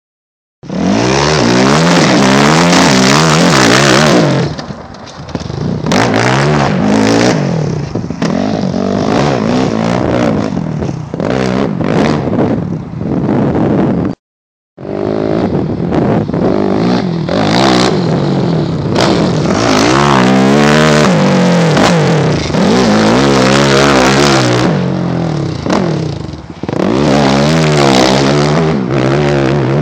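2009 Yamaha YFZ450R's single-cylinder four-stroke engine, breathing through an aftermarket DASA exhaust, revved up and down repeatedly, with a high sustained rev at the start. The sound cuts out briefly about halfway through, then the revving resumes.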